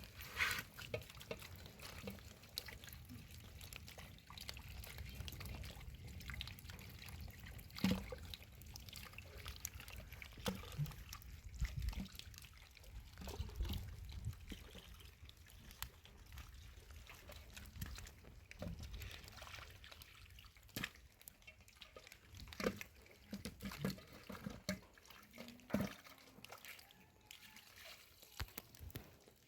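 Water pouring and trickling, with scattered light knocks and clatters throughout.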